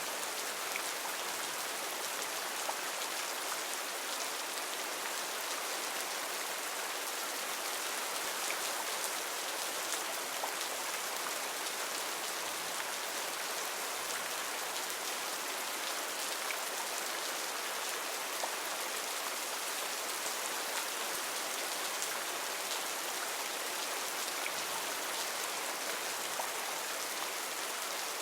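Heavy rain falling steadily on rainforest foliage, an even hiss with scattered individual drop ticks.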